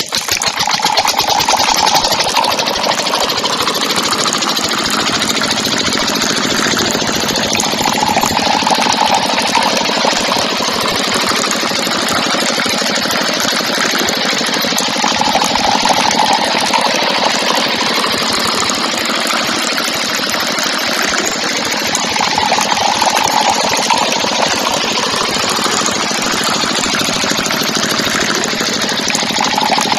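A miniature tractor's small motor running steadily with a fast rattling chatter. A higher hum swells and fades about every seven seconds.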